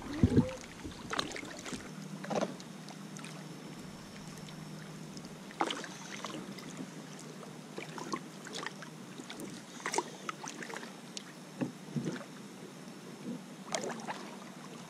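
Kayak paddles dipping into the river water in short, irregular splashes and drips, over a faint steady low hum.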